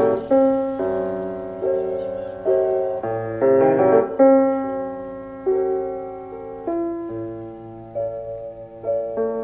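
Slow, quiet piano music: notes and chords struck about once a second, each left to ring and fade before the next.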